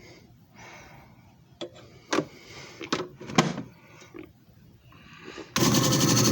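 A few clicks and knocks of handling, then near the end the JFJ Easy Pro disc repair machine's motor switches on abruptly and runs steadily.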